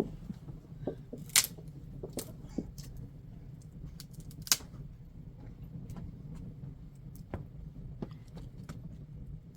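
Scattered light clicks and knocks, as of small hard objects being handled, with two sharper clicks about a second and a half and four and a half seconds in, over a steady low hum.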